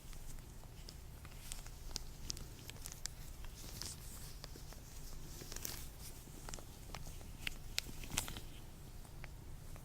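Hands in latex gloves rubbing, stretching and handling, making irregular sharp crackles and short squeaky rustles, over a steady low hum.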